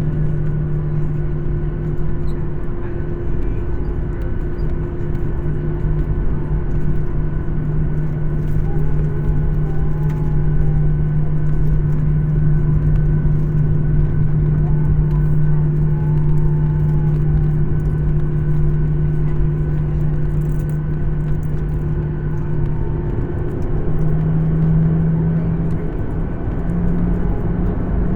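Embraer 175 cabin noise: its GE CF34 turbofan engines running with a steady, loud hum. Near the end the hum's pitch steps up twice.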